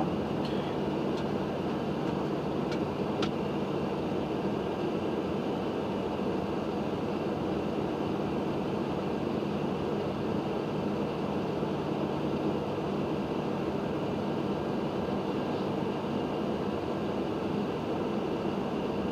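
Steady cockpit noise of a Boeing 737-800: air-conditioning airflow and equipment fans hissing, with a low hum and a thin high whine. A couple of faint clicks come about three seconds in.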